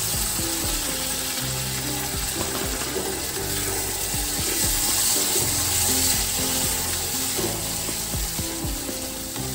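Tomato paste frying and sizzling in hot oil and spice masala in an aluminium kadai while a wooden spatula stirs it. The sizzle is steady and swells a little around the middle.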